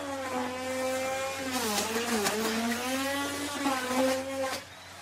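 Electric wood router running and cutting into wood. Its motor whine sags in pitch in the middle as the bit takes load, then recovers, and the sound drops away sharply near the end.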